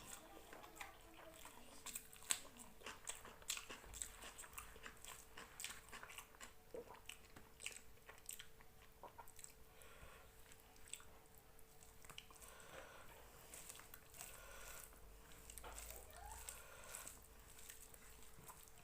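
Close-up mouth sounds of a person eating rice and chicken curry: chewing with many small wet clicks and crunches, thickest in the first half and sparser later. A faint steady hum runs underneath.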